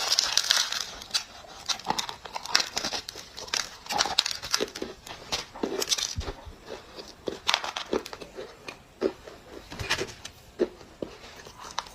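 Dry baked clay crunching close to the microphone: an irregular run of sharp crackles and snaps.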